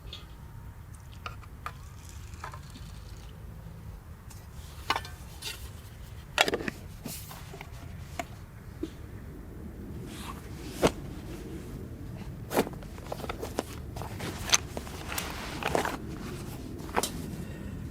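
Scattered clicks, knocks and short scrapes of things being handled, busier in the second half, over a steady low rumble.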